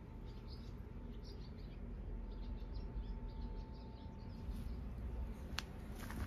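Small birds chirping in quick, repeated short notes over a steady low rumble; the chirping thins out about four and a half seconds in. A single sharp tick near the end.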